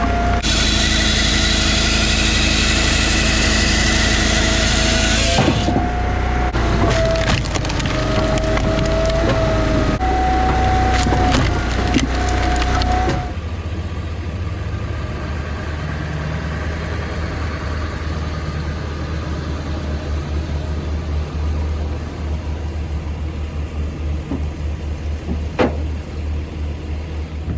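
Firewood processor working a log: engine and hydraulics running loud while the wood is cut and split, for about the first thirteen seconds. Then the machine drops to a quieter steady running, with a single sharp knock near the end.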